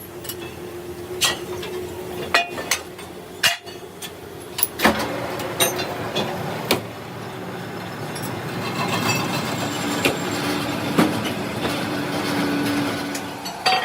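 Workshop machinery running steadily, with irregular sharp metal clanks and knocks from steel being handled or struck.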